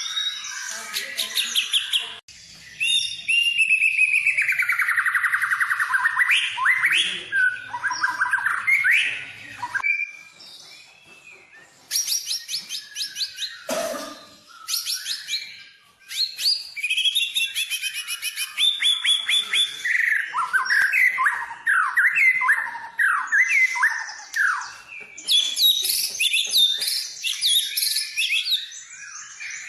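White-rumped shama (murai batu) singing a long, varied song of loud whistles, fast trills and rapid repeated notes, with a short lull and a brief knock near the middle.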